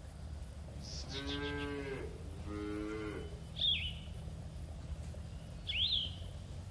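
Cattle mooing: two short moos in quick succession, then two brief high chirps a couple of seconds apart over a steady low rumble.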